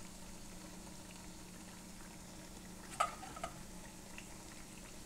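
Johnny cakes frying in hot oil, a steady low sizzle. About three seconds in there is a short sharp clink with a brief ring, followed by a smaller tick.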